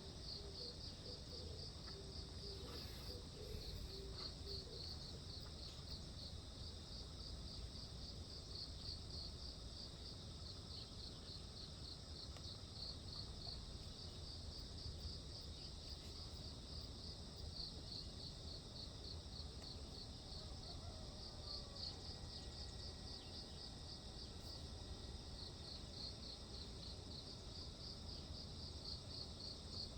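Insects chirping in a steady, evenly pulsing high trill over a low, steady rumble.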